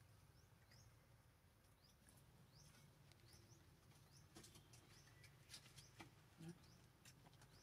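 Faint, high, short rising chirps of a small bird, repeating about twice a second and then fading out, over a low steady hum; a few soft clicks follow in the second half.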